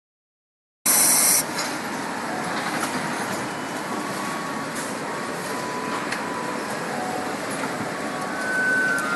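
Steady machine noise, opening about a second in with a short loud hiss, with faint brief tones sounding now and then.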